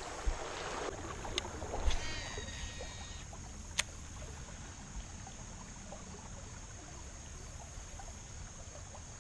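River water flowing and trickling around a wading angler, with a few light clicks of fishing gear. About two seconds in there is a brief whine, like a baitcasting reel's spool paying out line on a cast.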